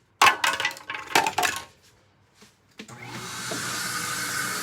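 Clinks and clatter of small hard parts being handled, then a click and a Hoover WindTunnel upright vacuum's motor starting up and running with a steady hiss and a constant whine.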